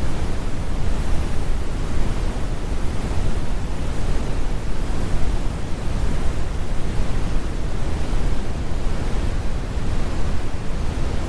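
Synthetic brown noise: a steady, deep rumble with the highs rolled off, with no lines or events in it.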